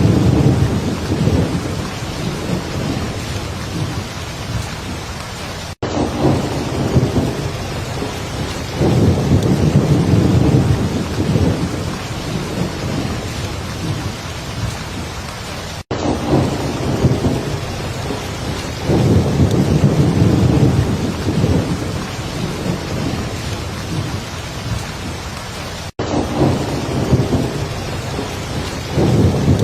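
Heavy rain falling steadily, with low thunder rumbling and swelling in waves. The track cuts out for an instant about every ten seconds, the seam of a repeating loop.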